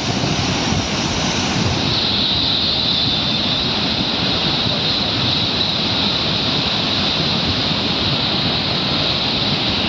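Rushing floodwater of a mountain stream in spate after a cloudburst: a steady, unbroken rush of water.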